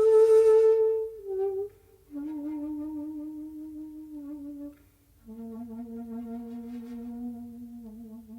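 Solo shakuhachi (Japanese end-blown bamboo flute) playing slow, long-held notes. It opens with a loud, breathy note that drops to a short lower one, then plays two long notes in turn, each lower than the last, with a short breath pause before each.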